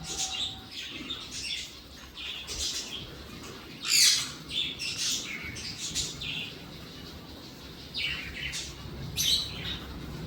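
Pet parrots chirping in short, repeated calls about once a second, the loudest about four seconds in and again near the end.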